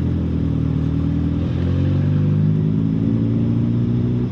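Car engine running as the car moves off slowly, its pitch rising a little about a second and a half in and then holding steady.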